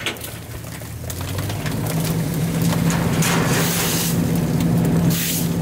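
CNG-powered Autocar ACX garbage truck's engine speeding up: its steady drone climbs to a higher pitch and grows louder over the first two seconds, then holds, with hissing bursts over it.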